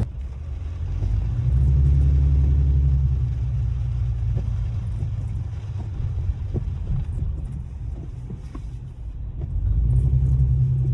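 Mercedes-AMG CLE 53's turbocharged inline-six running as the car drives, a low rumble that swells louder about two seconds in and again near the end.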